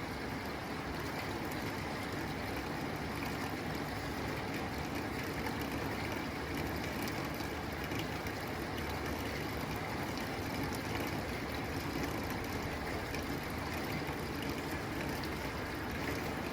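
Steady rain falling on a tin roof: an even hiss with scattered drop ticks.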